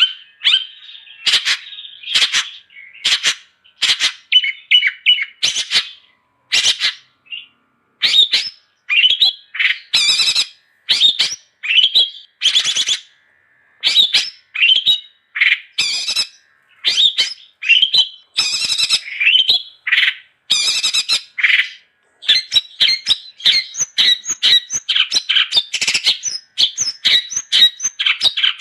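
Long-tailed shrike (cendet) singing in a rapid series of short, harsh chirps and squawks, with a brief lull about halfway through and denser chatter near the end.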